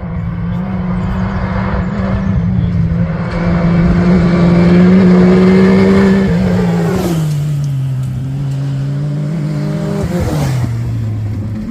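Rally-raid competition vehicle's engine running hard at high, steady revs, loudest about halfway through. Its pitch drops about two-thirds of the way in and again near the end.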